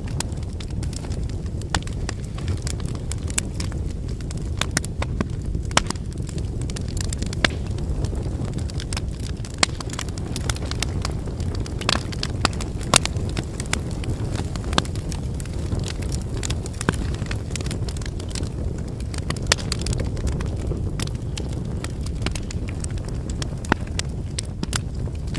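Wood fire burning: a steady low rush of flames with frequent irregular sharp crackles and pops from the burning firewood.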